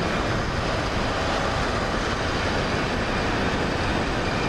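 Double-stack container train's cars rolling past on a steel girder bridge overhead, a steady even noise of wheels on rail.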